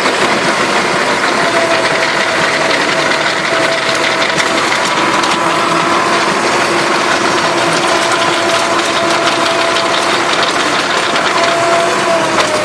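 Massey Ferguson 275 tractor's diesel engine running steadily while it drives an Agrator rotary tiller through the soil, with faint whining tones from the machinery running over the engine noise.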